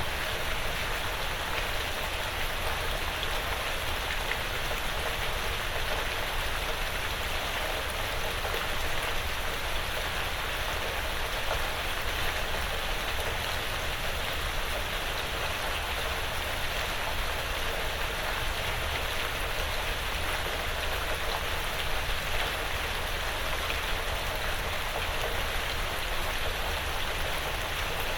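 Steady rain pattering on a porch roof and the surrounding woods, an even hiss of drops with no change in strength.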